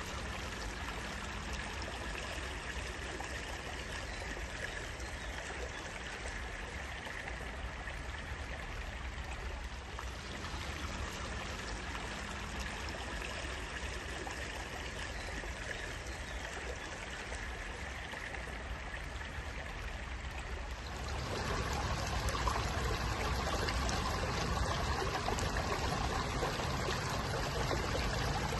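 Stream water flowing and trickling steadily. About three-quarters of the way through it abruptly becomes louder and fuller.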